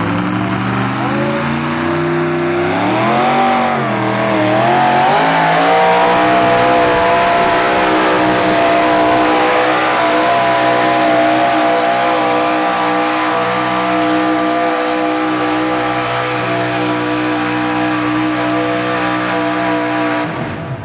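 Modified-class pulling tractor's engine running hard: the revs swing up and down for a few seconds, then hold at a steady high pitch at full throttle through a long pull.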